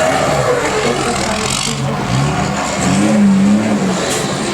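Unimog rally-raid race truck engine running and revving, its pitch rising and getting louder about three seconds in, then easing back.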